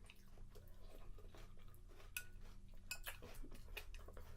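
Faint clicks of a spoon in a cereal bowl and quiet chewing of cereal, ending with a sharp clink of the spoon against the bowl that rings briefly.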